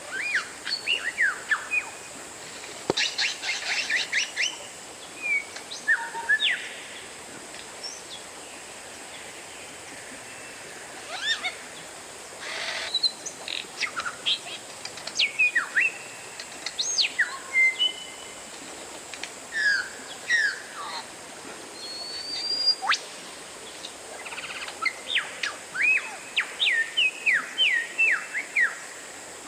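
Oriental magpie-robin (kacer) singing: a varied run of loud, sharp whistled notes that sweep steeply up and down, delivered in quick phrases broken by short pauses.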